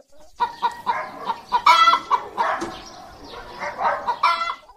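A flock of chickens clucking in many short overlapping calls, with a louder, longer call about two seconds in and another near the end.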